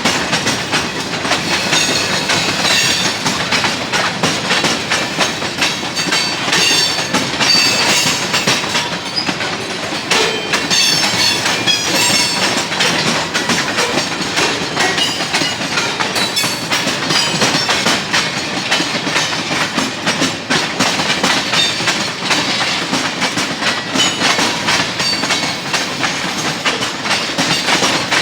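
A CSX freight train's cars rolling past, their wheels clacking steadily over the rail joints.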